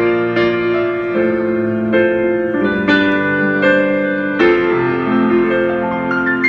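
Solo piano played live: a slow passage of chords struck a little under once a second, each left to ring on.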